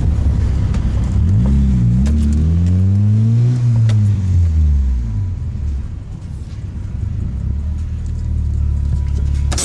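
Car engine running with a steady low rumble. About a second in, its pitch rises as it accelerates, then falls away by about five seconds in. A sharp click comes near the end.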